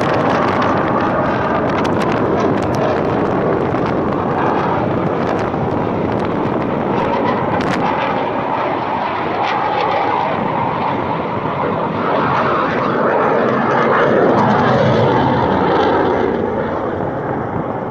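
Fighter jet flying overhead: a loud, continuous rushing jet-engine noise that peaks about fourteen seconds in and then begins to fade.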